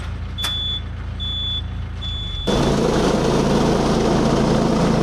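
Tractor engine running with a repeated high warning beep, a beep about every second. About two and a half seconds in, the beeping stops and the engine sound turns abruptly louder.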